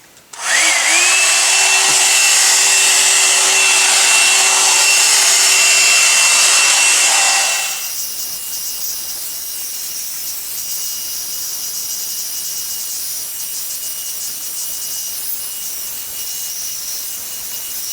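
A KWOW one-step hot-air brush hair dryer and volumiser switching on: its motor spins up with a whine that rises to a steady high tone over a loud rush of air. About seven and a half seconds in it becomes markedly quieter and runs on as a softer steady rush with a faint high whine.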